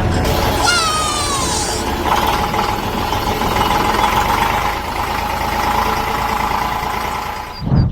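A vehicle engine running steadily, with a short falling whistle-like sound about a second in and a brief loud hit near the end.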